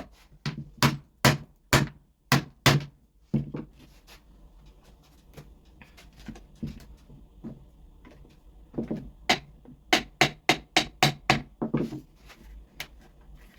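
A hammer tapping a metal part in a run of sharp knocks, about two to three a second. The taps pause for several seconds, with faint knocks in between, then start again for another run near the end.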